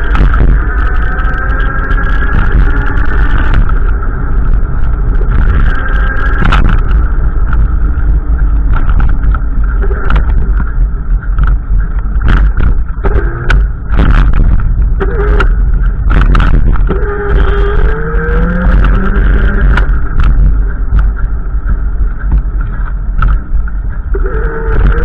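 Strong wind buffeting the microphone in a loud, continuous rumble, with scattered knocks and some faint pitched sounds that rise and fall over it.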